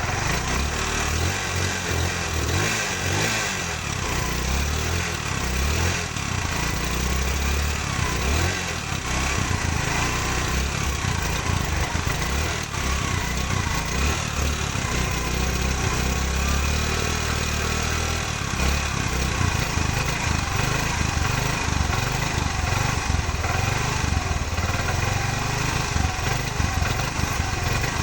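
TVS Star Sport ES motorcycle's small single-cylinder four-stroke engine, just started and running steadily at idle, with its low pulsing note wavering slightly in level.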